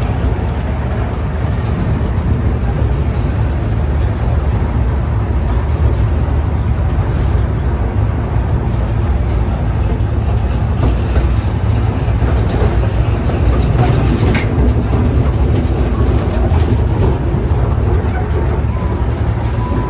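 Amusement-park train running along its track: a steady, loud rumble with no breaks.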